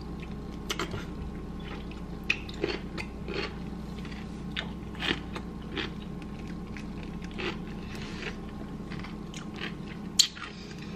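A person biting into and chewing a crunchy deli pickle close to the microphone: irregular crunches throughout.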